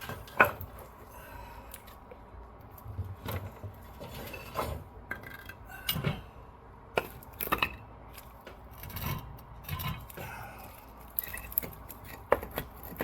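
A drill and rocks being handled and set down against hard surfaces: scattered knocks and clinks, the loudest a sharp knock about half a second in.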